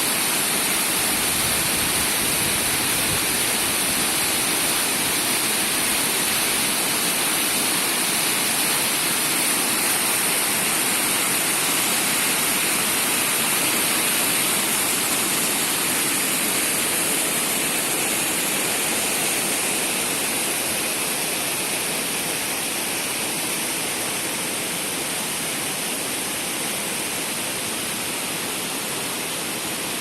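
Steady rush of fast mountain water from the Shumka waterfall and river, even throughout and easing slightly in the second half.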